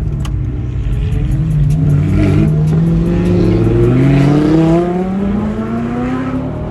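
Vehicle engine accelerating hard up through the gears, its pitch climbing, then dropping at each shift, several times in a row.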